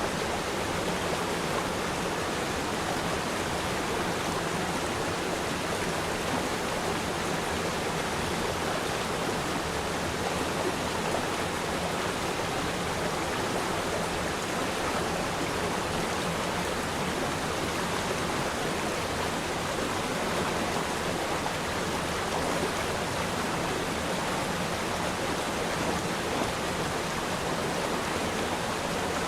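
Shallow river stream flowing steadily, an even rushing of water with no changes or distinct splashes.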